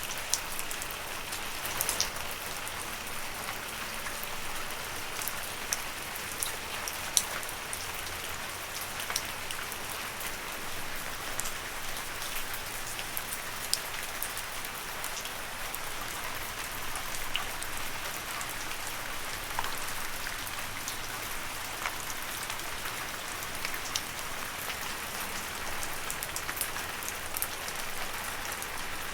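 Steady gentle rain falling on leaves: an even hiss with scattered sharp drip taps.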